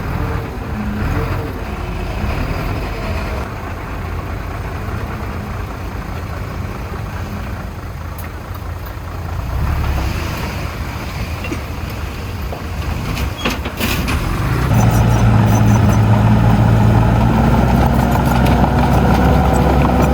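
Heavy diesel machinery engine running, rising clearly and staying louder about fifteen seconds in, with a few sharp knocks just before the rise.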